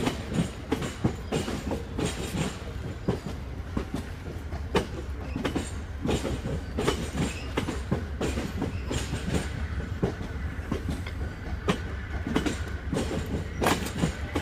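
Amtrak passenger cars rolling past below, their wheels clicking irregularly over rail joints and switches over a steady low rumble.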